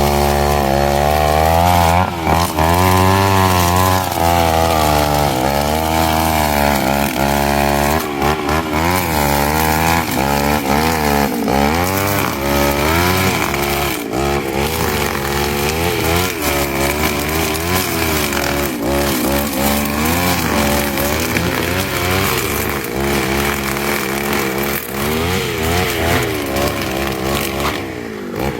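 Petrol brush cutter (Reload 543 VIP) running while cutting grass, its engine speed rising and falling repeatedly as it is throttled and loaded.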